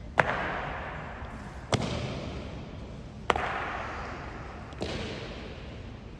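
Honor guard rifle drill: four sharp impacts evenly spaced about a second and a half apart, each ringing out with a long echo in a large hall.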